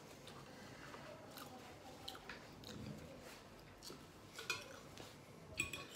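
Faint eating sounds: a man chewing spaghetti, with soft clicks of a fork against a ceramic plate. Near the end there is a brief high-pitched tone.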